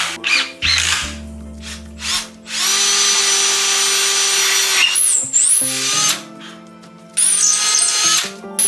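A power tool runs in two bursts over background music: a steady run of about two seconds starting about two and a half seconds in, and a shorter burst near the end, with brief pitch sweeps as the tool stops.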